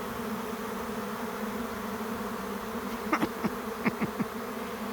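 Honey bee swarm in flight, a dense, steady buzzing hum of thousands of bees filling the air. About three seconds in, a few brief louder buzzes sweep down in pitch as single bees pass close.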